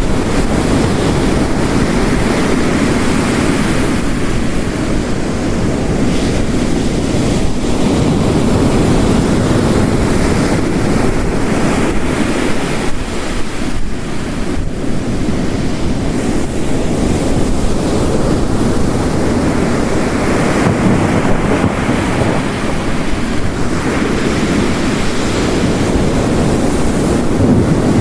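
Ocean waves crashing on the shore, mixed with steady heavy rain. The surf swells and falls back every several seconds.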